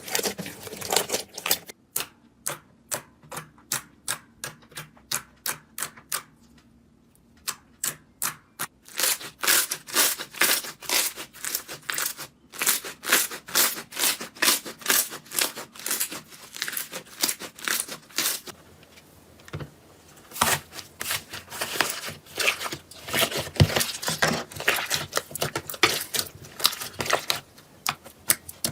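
Slime being squeezed and pressed by hand, giving off rapid crackling clicks in quick irregular runs, with a brief lull a few seconds in.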